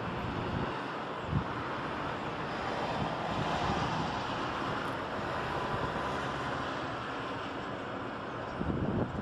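Steady outdoor background of wind and distant road traffic, with a short knock about a second and a half in.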